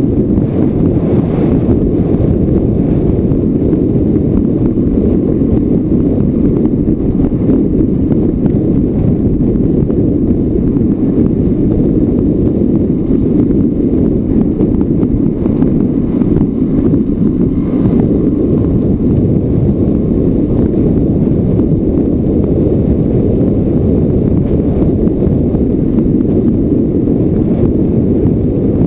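Heavy wind rumble on the microphone from a moving motorcycle, steady throughout, with the Yamaha Lanza's single-cylinder two-stroke engine running under it.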